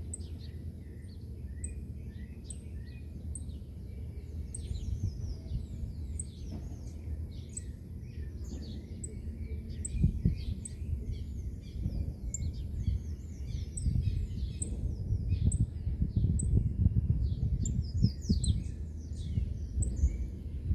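Several birds chirping and singing, one repeating a short high note at a steady pace, over a gusting low rumble of wind on the microphone that grows louder about halfway through.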